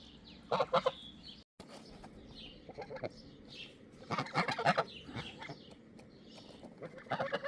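Chickens clucking in short bursts: about half a second in, again around four seconds in, and near the end. Fainter high chirps run in between.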